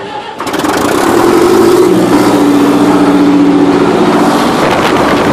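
Tractor engine starting about half a second in, coming up to speed and then running steadily and loudly.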